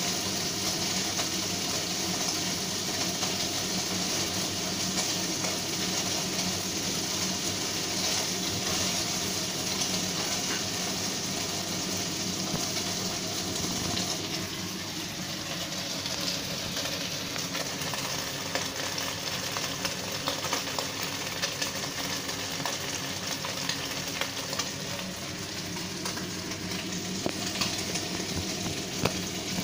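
Pieces of marinated pork sizzling in hot oil in a wok, turned with chopsticks and a spatula at first. The sizzle eases a little about halfway through, over a steady hum.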